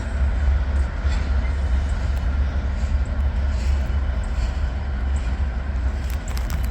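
Freight train rolling past with a steady low rumble and a few faint clicks.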